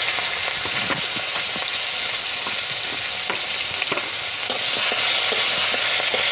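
Crab pieces sizzling in hot oil in a large wok, with scattered pops and crackles. About two-thirds of the way through, a metal spatula starts stirring them and the sizzle grows louder.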